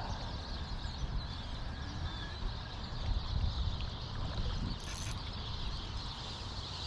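Steady rush of creek water with a low rumble beneath it, and one short sharp sound about five seconds in.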